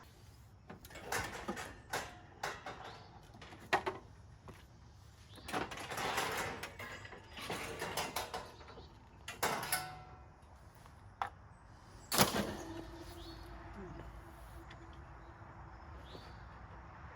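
Irregular metallic clunks, rattles and scrapes from handling a heavy commercial espresso machine, ending in one loud knock about twelve seconds in that leaves a brief ringing tone.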